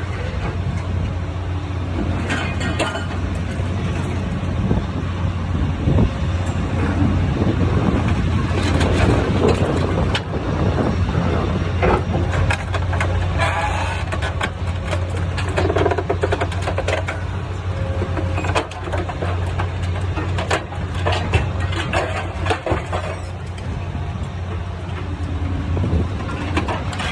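Sierra T550 logger baler shear running, its engine holding a steady low hum while metal cracks, clanks and crunches come irregularly as truck frame steel is sheared and handled.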